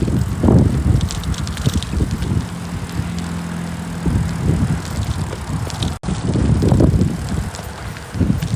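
Gusty wind buffeting the microphone of a camera on a moving bicycle, coming in uneven low surges. A steady low hum runs for about a second and a half in the middle.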